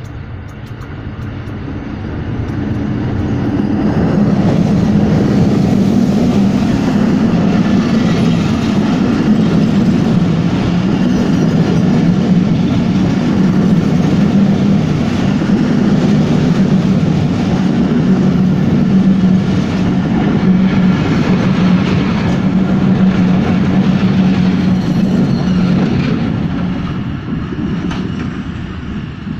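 Diesel-hauled passenger train passing close by. The locomotive draws near over the first few seconds, then a long rake of coaches runs past with a steady rumble and repeated wheel clicks, fading away near the end.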